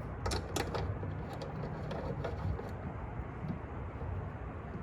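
Short replacement antenna being screwed by hand into a pickup truck's antenna mount: a few light clicks and taps in the first couple of seconds over a steady low rumble.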